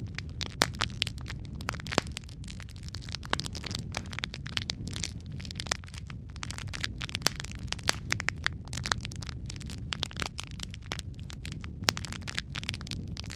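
Logs burning in a fireplace, crackling with frequent sharp pops over a steady low rush of flame.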